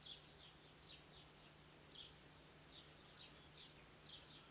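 Near silence with faint, short, high chirps from a small bird, each a quick downward slur, repeating irregularly two or three times a second, some in pairs.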